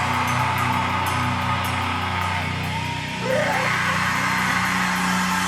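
Live punk rock band playing loud, distorted guitar chords over drums and crashing cymbals. The chords change about three seconds in, with a brief shouted vocal.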